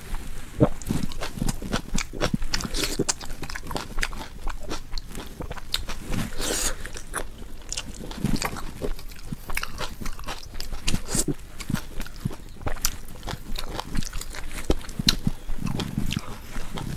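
Close-miked eating: a person biting and chewing with wet, crunchy mouth sounds, a rapid irregular string of smacks and crunches.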